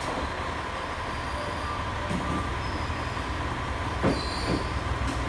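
Local passenger train at the platform: a steady low rumble with a thin, steady high tone, and a couple of brief knocks.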